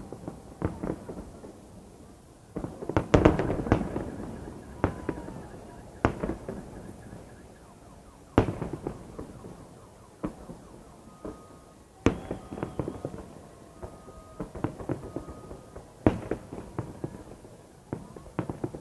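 Fireworks salute: shells bursting in repeated sharp bangs, with a dense cluster of bursts about three seconds in, then single loud reports about every four seconds with smaller pops and crackle between.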